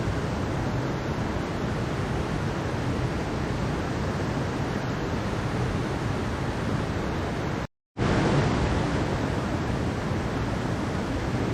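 Mountain stream water rushing and splashing in a steady, even wash. About eight seconds in the sound cuts out completely for a split second, then comes straight back, the break of a looped recording.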